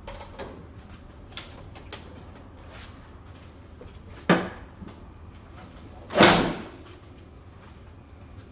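A few light clicks, then two sharp knocks, the second and loudest about six seconds in, over a low steady hum.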